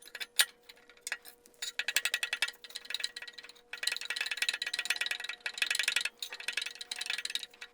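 Rapid metallic ratcheting clicks, about ten a second, in three bursts, as a ratchet wrench is worked on a stuck bolt on the engine.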